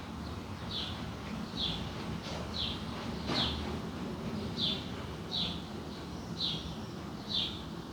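A bird calling a short, high, falling note over and over, about once a second, over a steady low background rumble. There is one sharp click about three seconds in.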